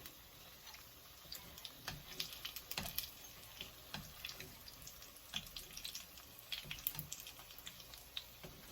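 Chicken lumpia (spring rolls) shallow-frying in hot oil, turned to cook the second side: faint, irregular crackling and popping.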